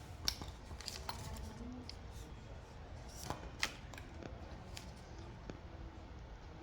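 Faint handling noises of small parts from a tubeless tyre puncture repair kit being picked up and set down: scattered light clicks and ticks, a couple of sharper ones a few seconds in.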